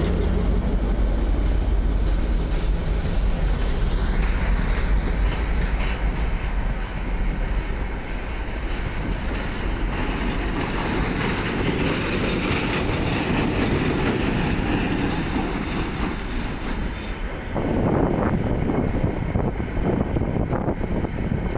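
Container freight train rolling past at close range: a steady rumble and rattle of wagon wheels on the rails, with a deep diesel-locomotive rumble fading over the first few seconds. Near the end come repeated wheel clacks over the rail joints.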